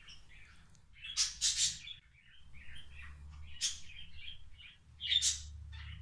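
Small cage birds chirping: a run of short, high chirps and tweets, loudest about a second in, again midway and near the end.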